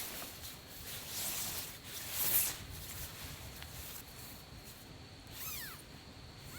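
Two brief rustling swishes, then near the end a cat meowing with falling pitch.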